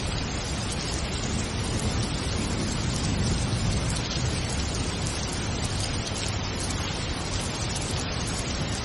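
Steady, dense rain, with a low rumble underneath that swells slightly about three seconds in.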